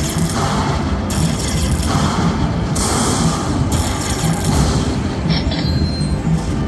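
Lightning Link slot machine playing its bonus-round music and sound effects, with a deep booming low end. High layers switch on and off every second or so, and a short ringing chime sounds about five seconds in.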